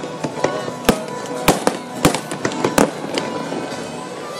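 Aerial fireworks shells bursting: four loud sharp bangs a half-second to a second apart, with smaller pops between them.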